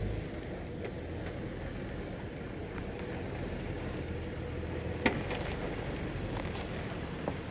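Offroad vehicle driving along a rough track: a steady low rumble with a few sharp knocks, the loudest about five seconds in and another near the end.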